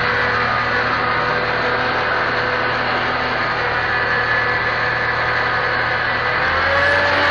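Massey Ferguson 275 tractor's diesel engine running steadily. About six and a half seconds in, the engine note shifts slightly higher.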